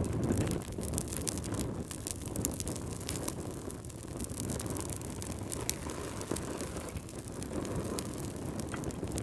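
Fireplace fire burning: a steady low rumble with frequent sharp crackles and pops.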